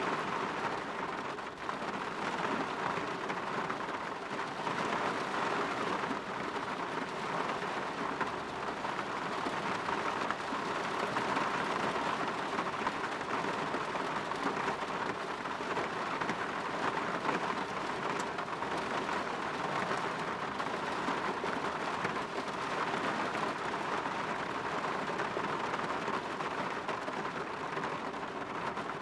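Steady rain pattering on a window.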